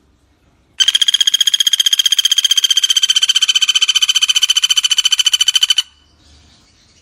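Pelatuk bawang woodpecker giving one long, loud rattling trill, about a dozen rapid even notes a second, starting about a second in and cutting off abruptly some five seconds later.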